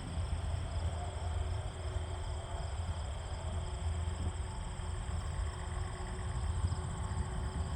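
Electric RC model plane (a 68-inch Super Decathlon on a 6S battery) flying at a distance, its motor and propeller a faint steady hum under a low wind rumble on the microphone.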